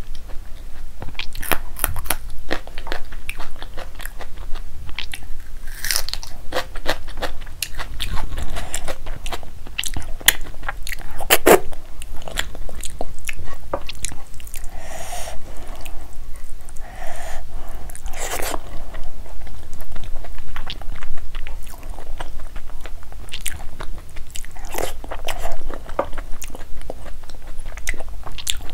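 Close-miked eating: crisp bites and crunching of raw green chilli and raw onion between mouthfuls of rice and palak paneer, with steady chewing and many sharp, wet mouth clicks.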